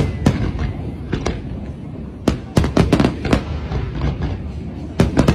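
Fireworks display: volleys of sharp bangs over a low rumble. The bangs come in quick clusters, with a dense burst in the middle, a quieter lull, and another volley near the end.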